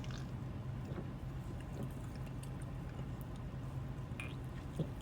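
Car running, a steady low hum heard inside the cabin, with a few faint small clicks and a short soft knock near the end.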